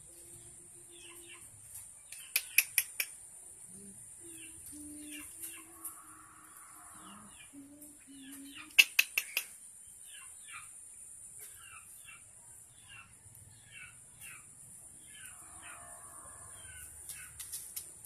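Small birds chirping in quick repeated notes over a steady high hiss, with two loud bursts of four sharp calls about six seconds apart.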